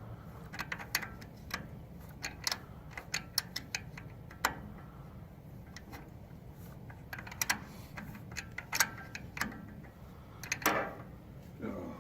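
Irregular metal clicks and taps of a wrench fitting and turning a distributor hold-down bolt on a 1942 Ford 9N tractor. The clicks come in small quick clusters, with a louder run of them near the end.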